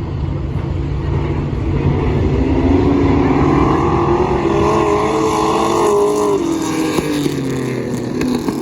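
V8 stock cars running at race speed past the microphone, several engine notes rising and falling as they pass. They are loudest about three seconds in and ease off after about six seconds.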